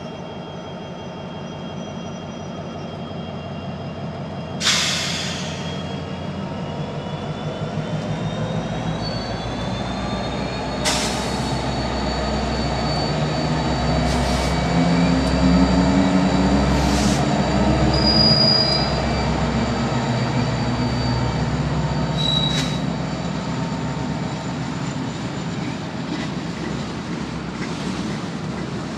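Union Pacific EMD SD70M diesel locomotives rumbling past, the engine sound building to its loudest in the middle, followed by rolling freight cars. Over it runs a steady high-pitched wheel squeal, with about five sharp metallic clanks scattered through.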